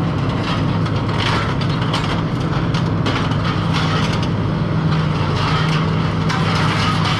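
Heavy machinery's diesel engine running steadily, with scattered clanks and crunches of scrap metal being handled by a grapple.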